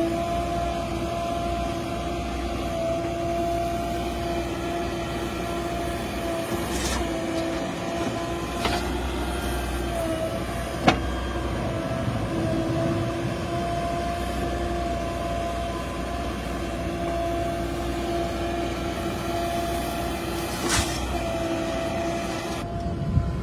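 JCB 3DX backhoe loader's diesel engine running steadily under load, with a steady whine over it and a few sharp metallic knocks, the loudest about 11 seconds in.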